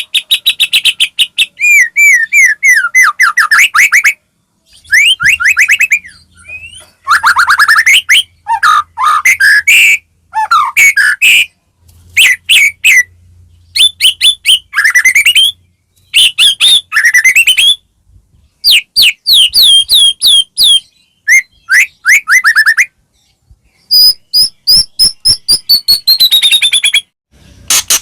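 White-rumped shama (murai batu) singing a loud, varied song: bursts of fast, repeated sweeping notes, broken by short pauses, with a long high whistle near the end.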